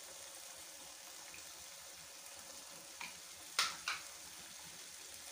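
Curry masala frying in oil in a karahi: a steady, soft sizzle, with a couple of sharp clicks a little past the middle.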